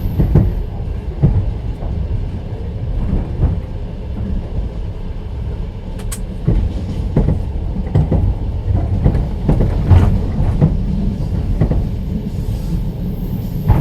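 Passenger train wheels clattering over rail joints, heard from inside an open-plan sleeper carriage: a steady low rumble with a run of knocks, and a brief high-pitched sound about six seconds in.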